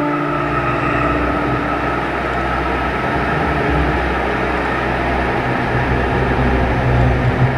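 Horror-film sound-design drone: a dense, steady low rumble, with a bell-like tone ringing out and fading in the first second. It swells slightly near the end, then drops away.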